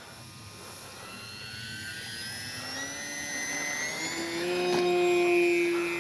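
Electric motor and propeller of an E-flite Sportix RC plane throttling up for takeoff: a whine that rises steadily in pitch and grows louder, then holds steady at its loudest near the end.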